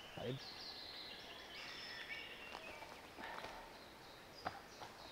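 Songbirds singing in woodland: repeated high chirps and short falling whistles over a quiet outdoor background. A brief low sound comes just after the start, and a few sharp clicks follow, the loudest about four and a half seconds in.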